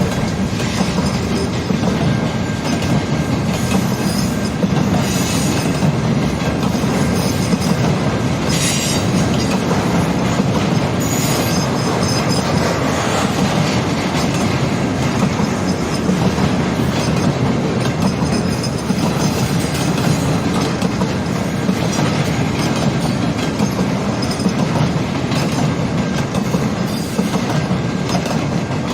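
CN mixed-freight manifest train's cars rolling steadily past, wheels clacking on the rails. A thin, steady high squeal runs through.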